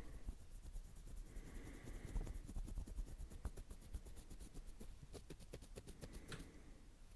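Close-miked ASMR scratching: rapid, light clicking strokes that come thickest in the middle and again towards the end.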